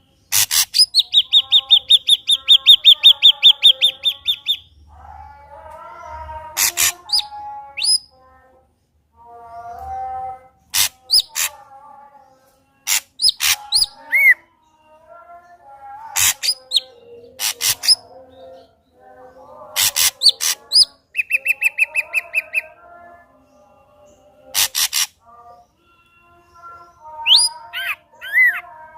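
Ashy drongo singing a loud, varied song: a fast rattling trill, sharp clicking notes and lower chattering phrases, with the trill coming back about two-thirds of the way through.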